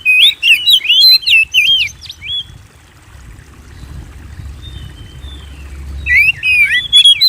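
Oriental magpie-robin (kacer) singing: rapid phrases of loud, varied whistled notes that break off about two and a half seconds in and start again about six seconds in.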